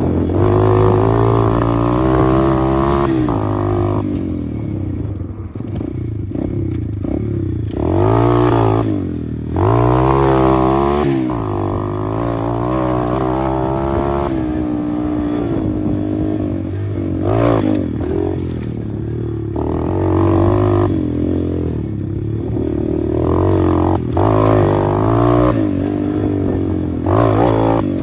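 A 125cc pit bike's engine running while being ridden, its pitch repeatedly climbing and dropping as the throttle is opened and shut and the gears are changed.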